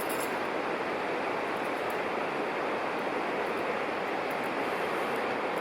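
Mountain river rushing: a steady, even flow of water noise.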